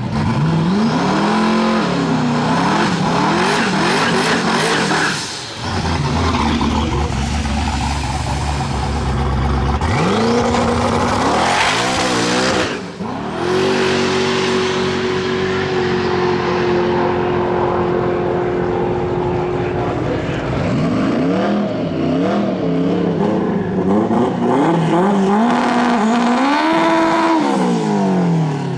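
Drag-race car engines revving hard, sweeping up and down in pitch several times. Around the middle, one engine holds a steady high pitch for several seconds, and near the end there are more rev sweeps.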